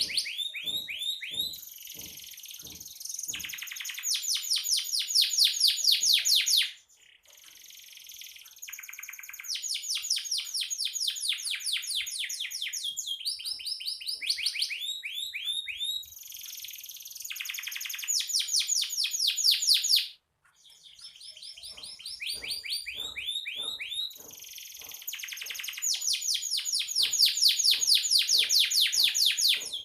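Domestic canary singing continuously in long runs of rapid, high-pitched repeated trills, with two brief breaks.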